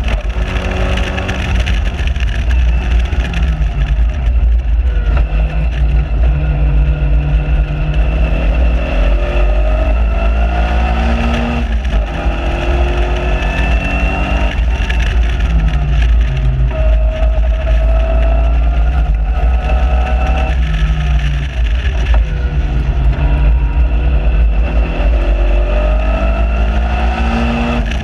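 Onboard sound of a Caterham Seven 1.6 Supersport's four-cylinder engine being driven hard on track: the revs climb and fall back sharply at each gear change several times, with heavy wind rumble on the microphone of the open car.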